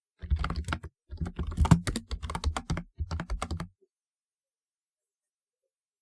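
Typewriter-style keyboard being typed on: rapid clacking keystrokes in three quick runs, stopping after about three and a half seconds.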